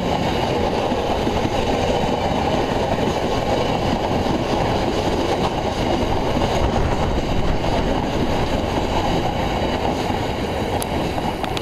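Freight train of bogie hopper wagons rolling past, a steady loud rumble of wheels on rail that eases slightly near the end as the last wagons clear.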